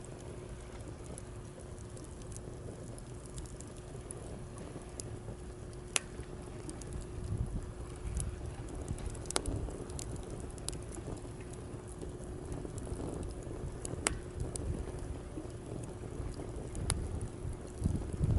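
Wood campfire crackling, with a handful of sharp pops spread through, over the low swelling rush of sea waves and wind.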